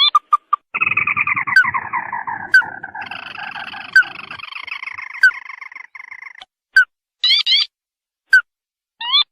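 Crake lure calls. A long rattling trill falls slowly in pitch from about a second in until about six seconds. Short sharp notes come about once a second throughout, and brief bursts of quick rising notes follow near the end.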